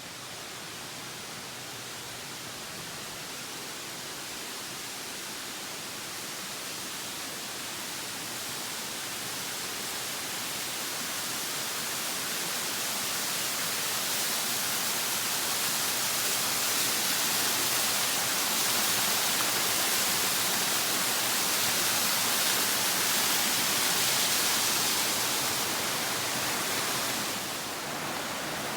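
Crabtree Falls' cascading water rushing in a steady roar of white noise that grows steadily louder for most of the stretch, then eases a little near the end.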